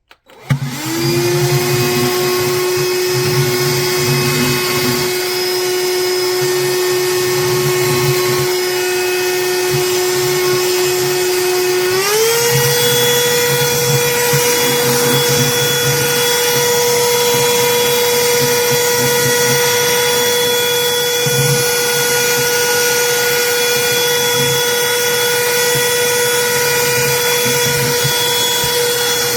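Cordless handheld vacuum motor switched on, spinning up within a moment to a steady whine. About 12 seconds in, the pitch steps up and holds at the higher speed.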